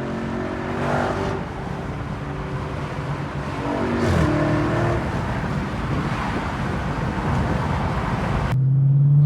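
Muscle-car V8 engines running and revving together, with one engine's pitch falling sharply about four seconds in. Near the end the sound changes abruptly to a single steady hum.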